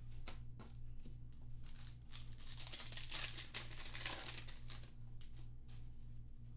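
A trading-card pack wrapper being torn open and crinkled by hand, most intense from about two to four and a half seconds in, with light clicks of cards being handled before and after.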